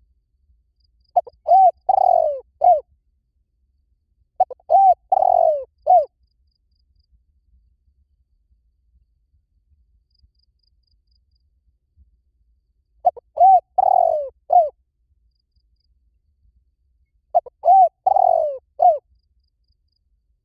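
Spotted dove cooing: four phrases of several short coos each, the first two about three seconds apart, then a pause of about seven seconds before two more.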